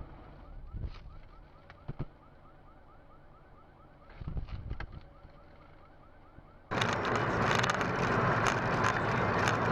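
A car alarm sounding faintly, a short rising chirp repeated about three times a second, with a few soft knocks. About seven seconds in it cuts suddenly to loud, steady road and wind noise.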